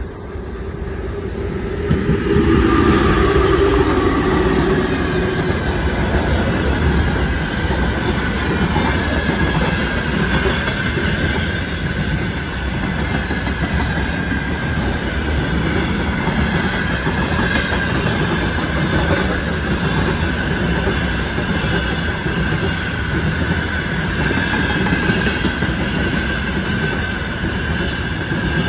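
VL10U electric locomotive hauling a freight train passes close by, followed by a long string of hopper wagons. The loudness builds over the first two seconds as the locomotive arrives, with its note dropping in pitch as it goes by. After that there is a steady rolling rumble and rattle of wheels on rail, with a faint steady high whine above it.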